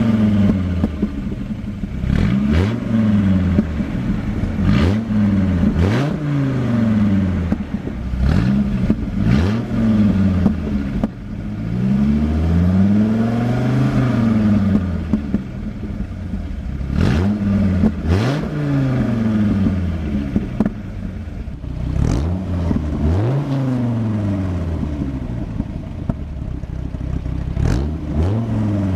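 2003 Dodge Viper SRT-10's 8.3-litre V10 being revved through its exhaust. A series of quick throttle blips, each rising and falling in pitch, with one longer, slower rev about halfway through.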